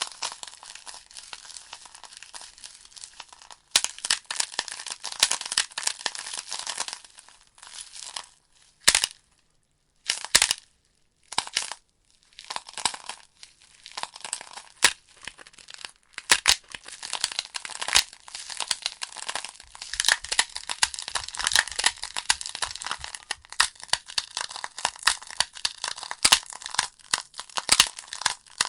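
Wood fire crackling: burning logs give off a dense run of sharp pops and snaps over a steady hiss. The sound drops out briefly a few times around ten seconds in.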